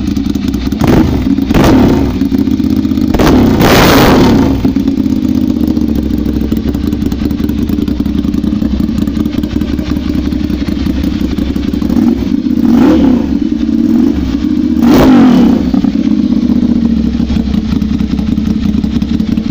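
Ducati Monster 796's air-cooled L-twin engine idling through aftermarket SC-Project exhausts. The throttle is blipped five times in quick sharp revs, the longest about four seconds in and two more near the end.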